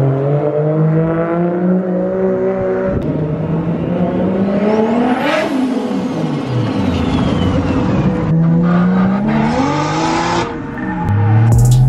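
Toyota Mark II JZX100's single-turbo straight-six accelerating hard, its revs climbing and dropping back at the gear changes. About five seconds in the car passes close by, with a high whine that rises and then falls. Near the end it pulls through the gears again, heard from inside the car.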